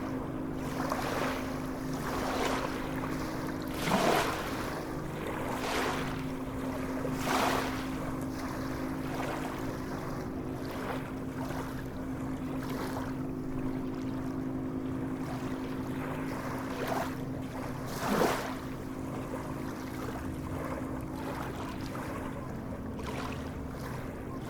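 Sea waves washing and splashing, with louder splashes about four seconds in, around seven seconds and near eighteen seconds. Under them runs a steady low hum.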